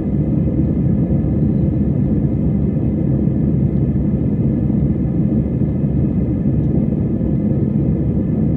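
Steady jet engine and airflow rumble of an Airbus A320-family airliner heard from inside the passenger cabin.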